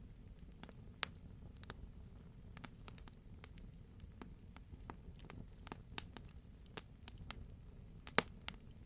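Wood campfire crackling: irregular sharp pops and snaps over a low, steady rumble of the burning fire, with the loudest pops about a second in and near the end.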